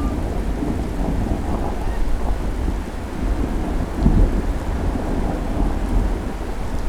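Steady rain with a low rumble of thunder rolling underneath, swelling about four seconds in.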